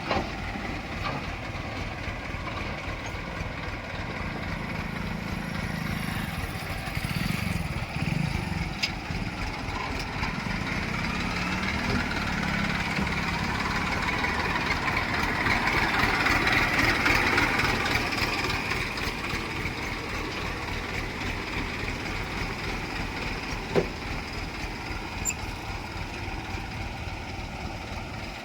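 Heavy machine's diesel engine running steadily under load, rising in level about halfway through and then easing back, with a few short knocks.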